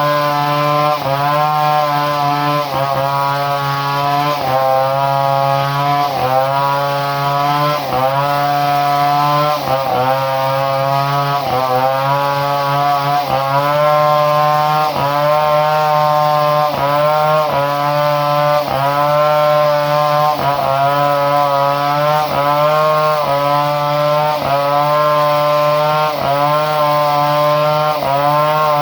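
Two-stroke chainsaw engine running steadily, its pitch dipping briefly and recovering every second or two.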